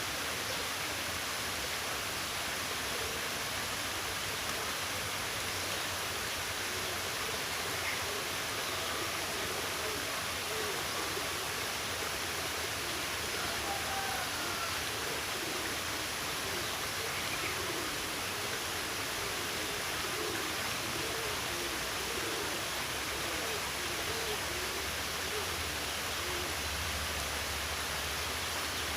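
Steady rushing water, a stream or small waterfall, as an even hiss across the whole range. A few faint short calls rise above it here and there.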